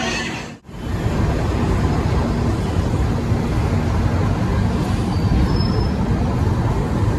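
Steady low rumble of an Indian LHB-coach express train rolling out of the station, heard from the coach's open door, after a brief drop about half a second in.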